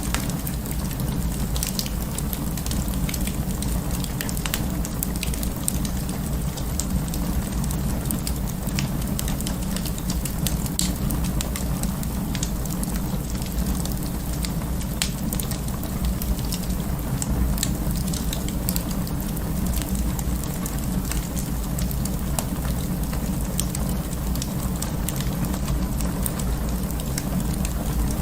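Wood fire burning in an open fireplace: a steady low rumble under frequent small crackles and pops.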